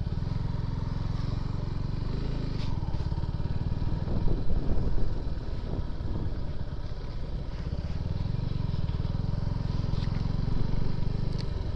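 Suzuki Gixxer SF 250's single-cylinder engine running, with the engine note rising and falling briefly about four seconds in.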